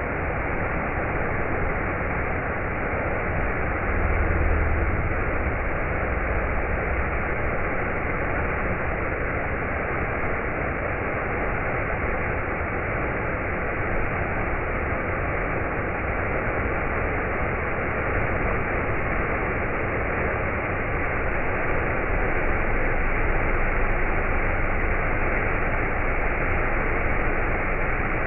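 Steady hiss with a low rumble underneath, the rumble swelling briefly about four seconds in and again near the end.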